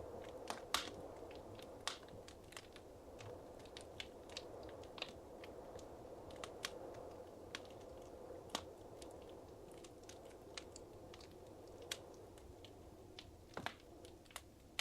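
Wood fire crackling in a fireplace: irregular sharp pops and snaps, a few louder ones, over a soft steady hiss of burning.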